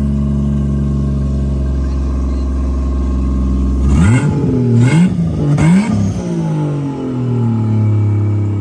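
A car engine idling steadily. About four seconds in, it is revved in three quick blips, the pitch rising and falling each time, before it drops back to idle.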